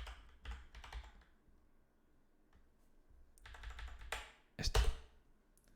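Computer keyboard typing: a run of keystrokes in the first second or so, then another flurry about three and a half seconds in.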